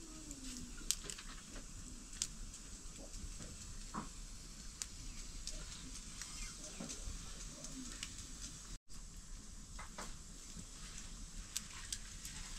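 Food sizzling in oil in a cooking pan, a faint steady hiss with scattered clicks of stirring.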